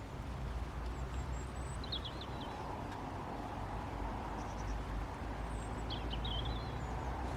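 Small bird calling: short chirps in two brief bursts, about two seconds in and again about six seconds in, over a low steady outdoor rumble.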